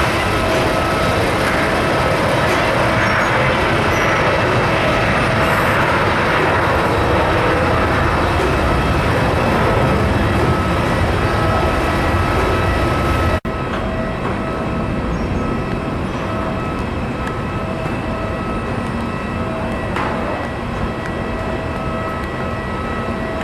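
Jet airliner engines: a loud, steady rush of noise with a thin, steady whine over it. About 13 seconds in the sound cuts abruptly to another stretch of jet noise, a little quieter, with the whine fading in and out.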